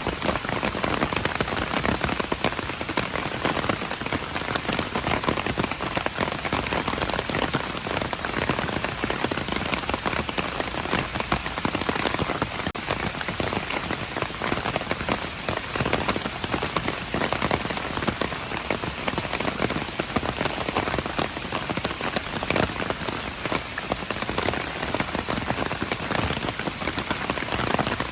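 Steady rain falling: a dense, even hiss of rain with many small individual drop hits, unchanging throughout.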